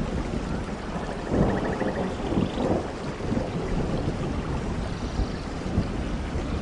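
Steady heavy rain with low rolling thunder rumbling underneath, swelling most strongly about a second and a half in.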